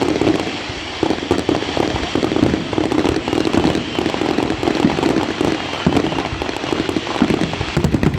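Fireworks going off in quick succession, a continuous run of cracks and bangs with no pause.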